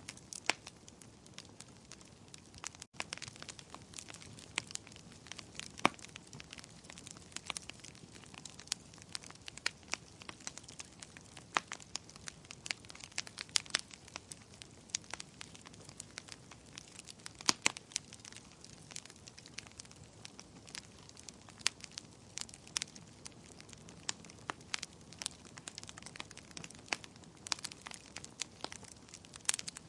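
Wood fire crackling steadily, with irregular sharp pops and snaps, some much louder than the rest, over a soft low hiss of burning.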